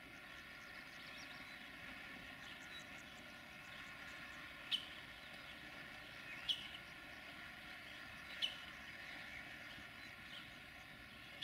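Faint steady hum of a distant Duewag BR628 diesel railcar approaching. Three short, sharp bird chirps about two seconds apart stand out as the loudest sounds.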